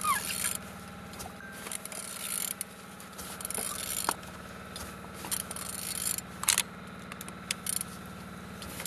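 A removed engine being turned over by hand with a wrench, giving irregular scraping and clicking from the tool and the turning engine, with a steady hum underneath. It turns freely, the sign of an engine that is not seized.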